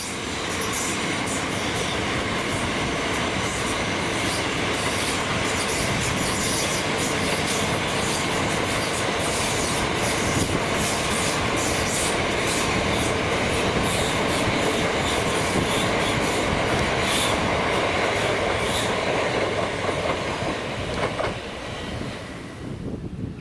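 A train passing on the rails: a steady rumble of wheels with many quick clicks over the rail joints. It thins out and fades away near the end.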